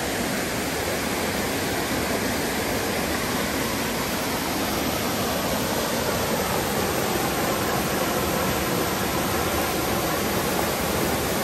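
Waterfall pouring into a river pool: a steady, even rush of falling water.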